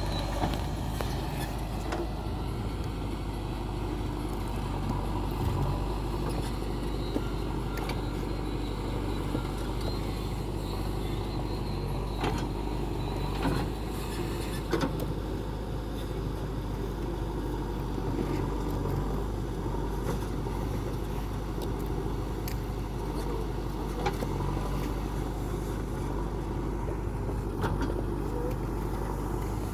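Backhoe loader's diesel engine running steadily, with scattered clanks and rattles throughout.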